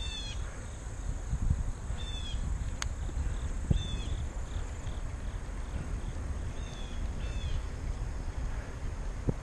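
A bird giving short chirps, five in all, each bending down in pitch: one at the start, one about 2 s in, one about 4 s in and two close together about 7 s in. Under them a steady low rumble of wind and rolling noise from the moving bike, with one sharp click about 3 s in.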